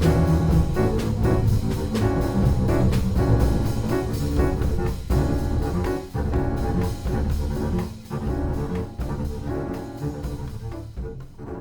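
Free-improvised jazz from a piano, double bass and drum kit trio playing densely together, with many piano notes over bass and drum strikes. The playing thins out and gets quieter over the last few seconds.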